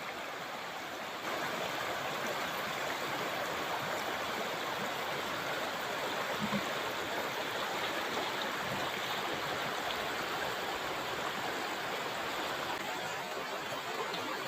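River water running steadily, rising slightly in level about a second in.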